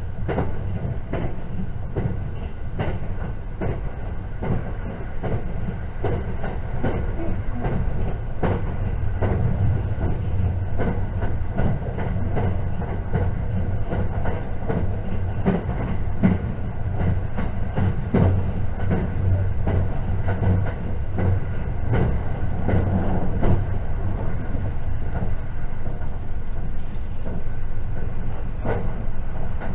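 Running noise inside a JR 681 series electric multiple unit limited express: a steady low rumble with frequent irregular clicks and knocks from the wheels on the track.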